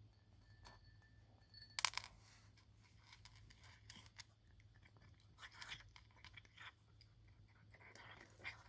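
Faint, irregular crunches and clicks, with one sharp click about two seconds in, over a faint steady low hum.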